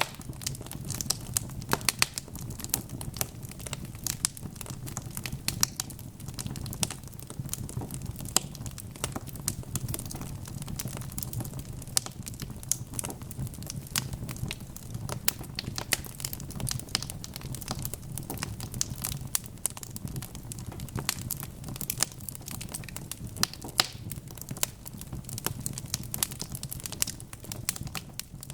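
Wood fire crackling, with many small irregular pops and snaps over a steady low rumble of the flames.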